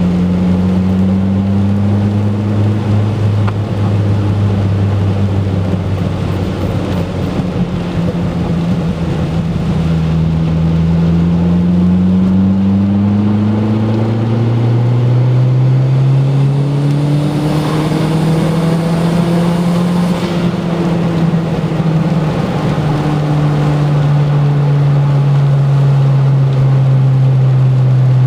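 Turbocharged Ford Focus engine running, a steady hum whose pitch climbs slowly about halfway through and then holds higher. The car has a rough idle and seems to miss under boost even with a new coil pack, which the owner puts down to the plug wires or a cylinder 2 fuel injector.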